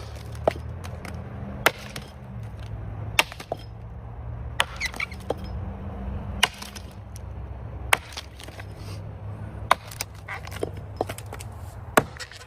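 Axe blows biting into the trunk of a large tree, about one every second and a half, as the notch is chopped in toward the tree's centre. A steady low rumble runs underneath.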